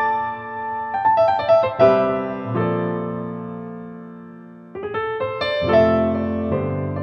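Slow, soft piano music: groups of notes and chords struck and left to ring and fade, with a long fading chord before new notes come in about five seconds in.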